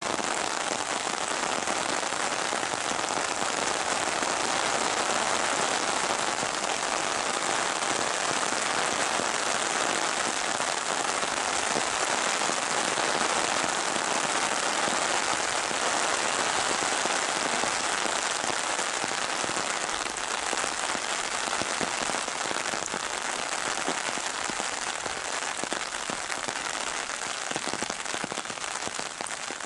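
Steady rain falling on an open umbrella held just overhead: a dense, crackly patter of drops on the fabric, a little softer near the end.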